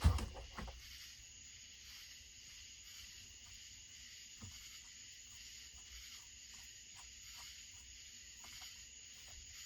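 Steady faint chirring of crickets in the background, with a few light clicks and taps of hand tools on the chainsaw. A short knock of handling right at the start.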